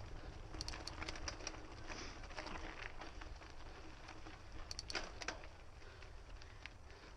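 Mountain bike being ridden on a dirt trail: tyres rolling over the ground and wind rumbling on the microphone, with two spells of sharp clicks and rattles from the bike, about a second in and again about five seconds in.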